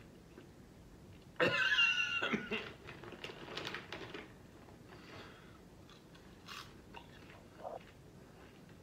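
A person chewing crunchy kettle corn, with a short loud burst of voice about a second and a half in, then scattered crunches.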